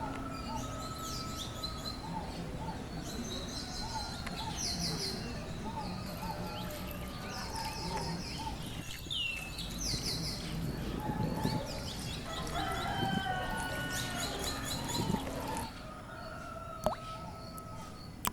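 Many birds chirping and calling over one another: quick repeated high chirps and whistled glides, over a steady low background hum.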